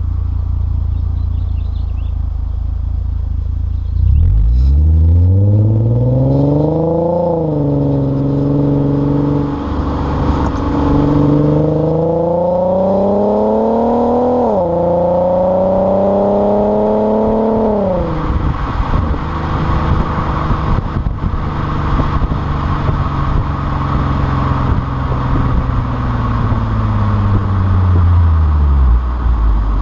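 Infiniti Q50S's V6 through a Stillen cat-back exhaust, pulling under heavy throttle. A low steady drone gives way about four seconds in to a rising exhaust note that dips twice as it climbs, at about seven and fourteen seconds, like gearshifts. It drops off sharply around eighteen seconds to a steadier drone, which falls in pitch near the end.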